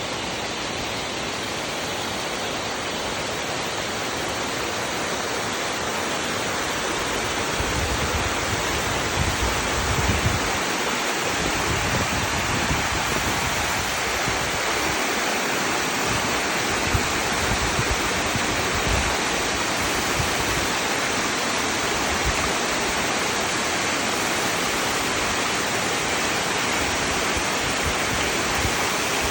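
Waterfall pouring: a steady, even rush of falling water with an uneven low rumble underneath, growing slightly louder over the first several seconds.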